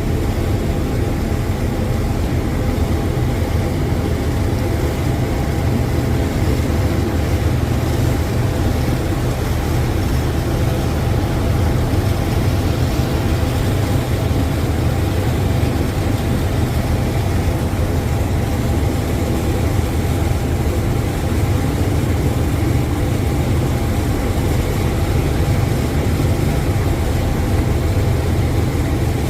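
Steady low drone of a passenger riverboat's engines, heard from on board while the boat is under way.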